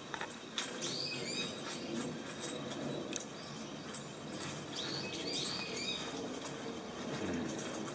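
Small birds chirping: a few short curved chirps about a second in and a cluster of them around five to six seconds in, over a steady background hiss.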